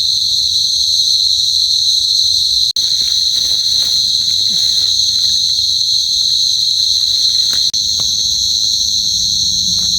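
Dense night-time insect chorus, a steady high-pitched shrill that fills the air. The sound cuts out for an instant twice, once near the 3-second mark and once near the 8-second mark.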